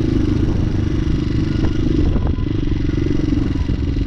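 Hawk 250 dual-sport motorcycle engine running steadily while cruising at low speed, with a few light clicks or rattles about halfway through.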